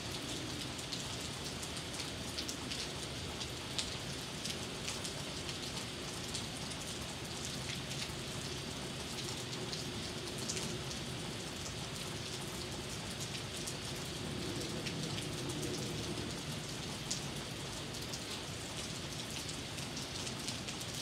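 Hard rain falling steadily: a constant hiss of rain with many sharp taps of drops striking close by.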